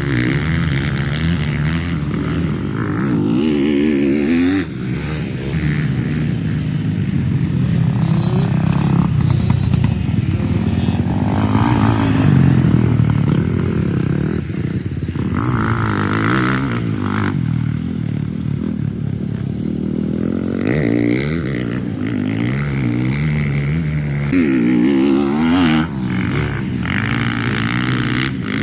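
450 four-stroke motocross bike engine revving up and down over and over as it is ridden hard, with brief drops in loudness as the throttle is shut off.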